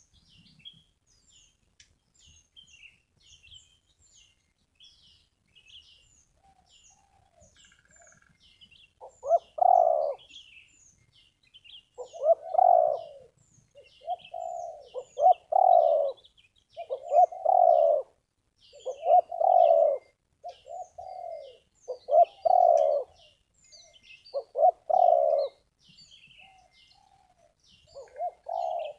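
Spotted dove cooing: a run of loud, low coo phrases, one every two seconds or so, starting about nine seconds in. Small birds chirp faintly and steadily at a much higher pitch throughout.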